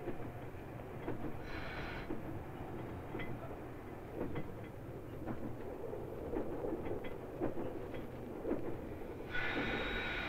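Diesel railcar heard from its driving cab, running on a falling gradient: a steady rumble with irregular clicks of the wheels over rail joints. A high, steady ringing tone sounds briefly about a second and a half in and again for a couple of seconds near the end.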